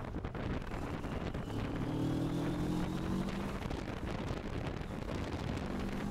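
CFMoto 650MT's parallel-twin engine running on the move under heavy wind rush on the microphone. The engine note comes up and climbs slightly about a second and a half in, then returns near the end.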